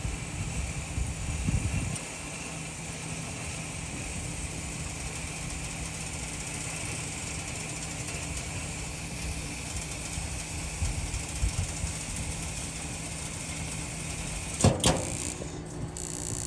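Raypak gas pool heater running, a steady hum and hiss of burner and machinery. Near the end there is a single sharp clack.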